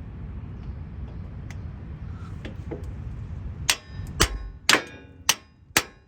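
A hammer striking metal to drive a freeze plug into an engine block: five sharp, ringing metallic clangs about half a second apart, starting about halfway through.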